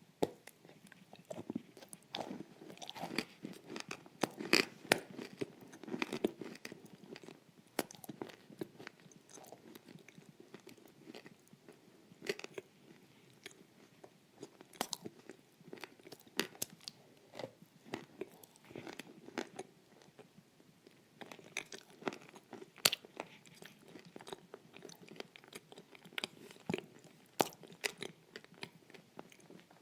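Close-miked crunching and chewing of food: many sharp, irregular crunches over a soft wet chewing sound.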